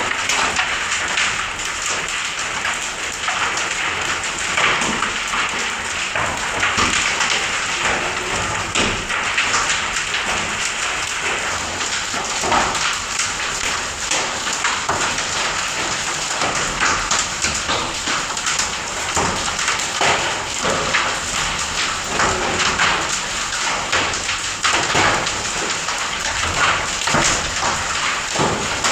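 Hailstorm: a steady hiss of heavy rain with many sharp taps and knocks of hailstones striking hard surfaces.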